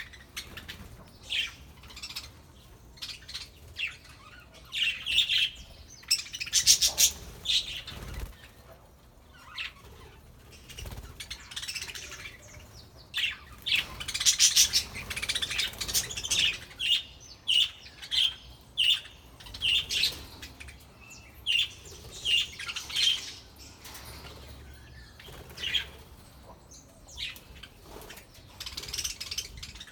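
A flock of budgerigars chirping and chattering, with many short overlapping calls and a few wing flutters.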